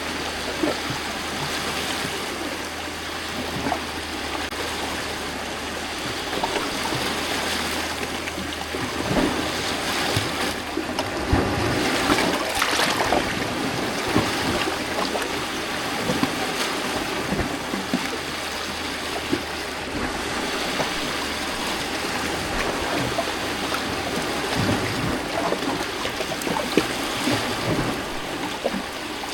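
Small lake waves lapping and splashing against a rocky shore: a steady wash of water broken by many little splashes, swelling louder about halfway through.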